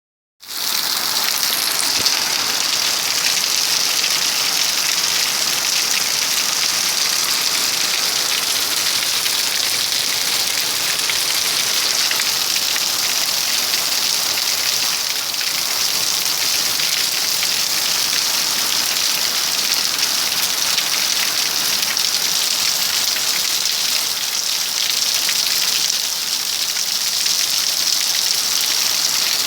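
Rain falling steadily: a dense, even hiss of drops.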